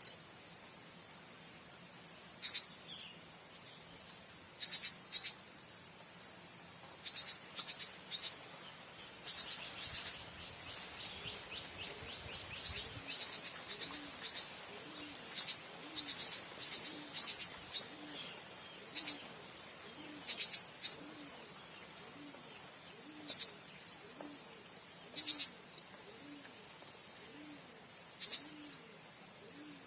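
Blue-crowned hanging parrots giving short, very high-pitched chirps in quick clusters of two to four, every second or two, over a steady high insect drone. A faint low note repeats about once a second from about halfway in.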